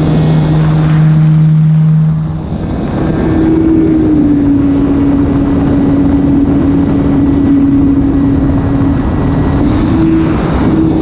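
E-flite Carbon-Z Cub SS's electric motor and propeller running in flight: a steady buzz that shifts pitch a few times, lower at first, then higher for most of the time, over a constant rush of wind noise.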